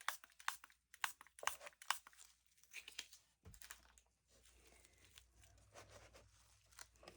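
Faint spray bottle squirting alcohol over freshly poured epoxy resin to pop surface bubbles. It comes as a quick series of short sprays, about three a second for the first three seconds, then sparser and fainter.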